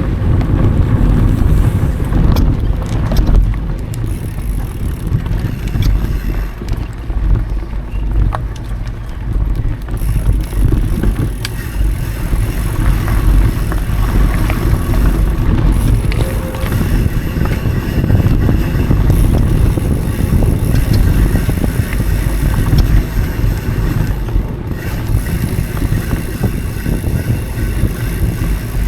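Mountain bike rolling fast over dry dirt trail: a steady rumble of tyres and wind on the action camera's microphone, with scattered clicks and knocks as the bike rattles over the ground.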